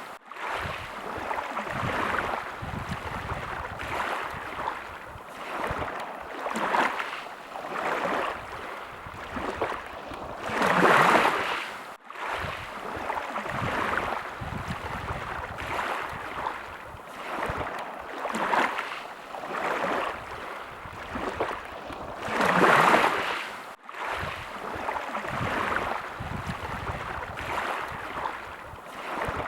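Sea waves washing in on the shore, the sound swelling and falling every second or so, with a bigger wave about 11 seconds in and again near 23 seconds. The sound drops out for an instant just after each of those bigger waves.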